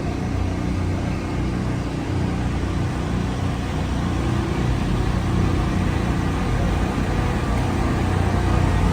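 Steady low mechanical rumble with a faint hum, like an engine running.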